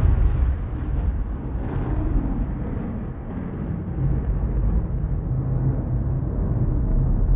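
Thunder rumbling: a deep, uneven roll whose higher crackle fades over the first couple of seconds, leaving a continuous low rumble.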